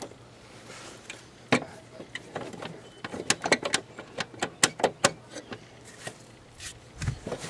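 A run of short clicks and knocks from tools and parts being handled during work on a lawn mower engine, with one knock about one and a half seconds in and a quick cluster of clicks in the middle.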